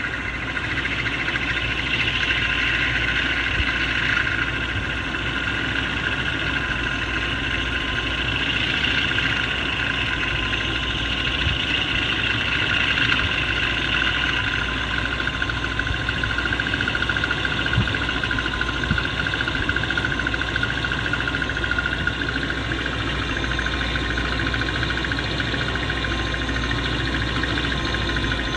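M73 engine running with a loud, steady whirring drone over the idle, a noise the owner likens to a pump running.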